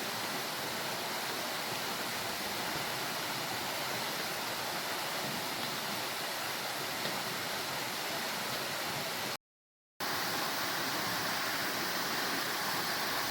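Waterfall, a steady rush of falling water, broken once about two-thirds of the way through by a sudden half-second dropout to silence.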